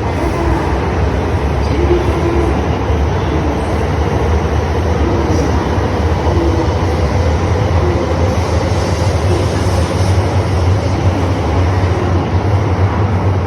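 17-car E5 and E6 series shinkansen train pulling out of Ueno station, the cars running past at a steady, loud level with a deep low hum.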